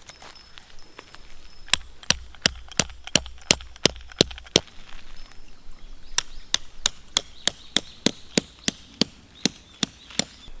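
Metal tent pegs being driven in with a hammer: two runs of sharp, ringing strikes about three a second, with a short pause between them.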